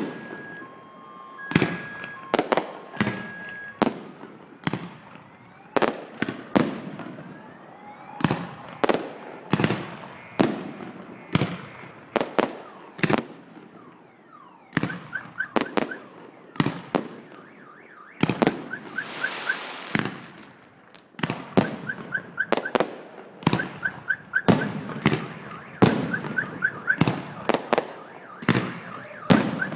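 Fireworks display, with shells bursting in a rapid, irregular string of loud bangs and a brief hiss about two-thirds of the way through. From about halfway, a car alarm chirps in repeated short groups between the bangs.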